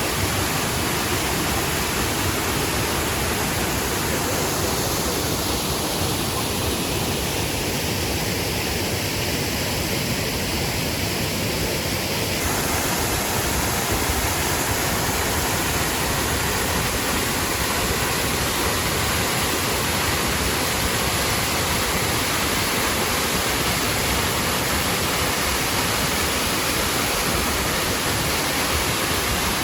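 Triberg waterfalls' cascades rushing: a steady wash of falling water.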